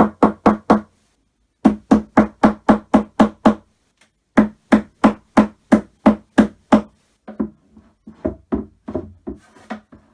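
Hammer knocking on the wood panels of a flat-pack IKEA cupboard under assembly: three runs of steady blows about four a second with short pauses between, then softer, uneven taps near the end.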